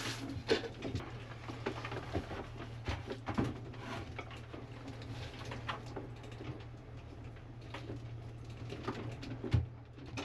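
Steady low hum of the sailboat's running engine, with scattered clicks and knocks as the watermaker's intake hose is handled and refitted to the low pressure pump. The pump itself is off.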